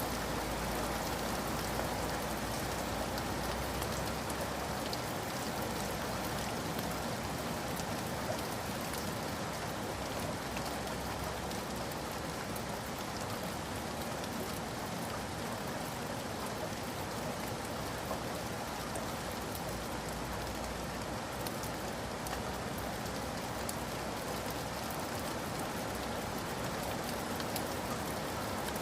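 Steady rain falling, with many fine drop patters on surfaces.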